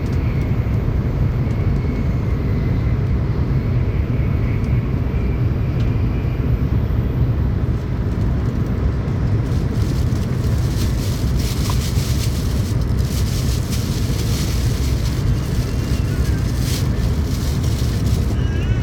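Tokaido Shinkansen train running at speed, heard from inside the car: a steady low rumble under an even rush of running noise. A brighter hissing rush joins about halfway through.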